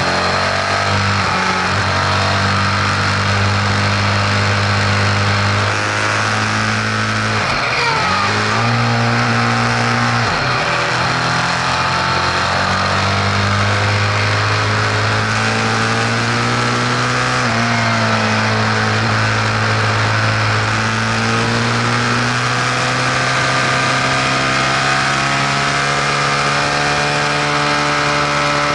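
Vehicle engine running steadily, its pitch dipping briefly and recovering twice about a quarter to a third of the way in, then settling slightly lower just past halfway. The owner hears in it a mechanical noise they don't recognise.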